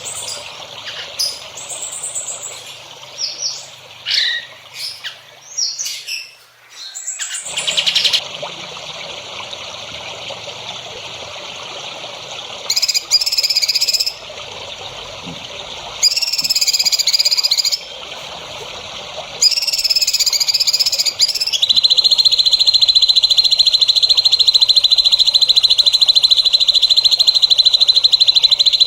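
Songbirds singing, with varied short chirps and whistled call phrases over a steady high background trill; about two-thirds of the way in, a continuous high, even buzzing trill starts and holds.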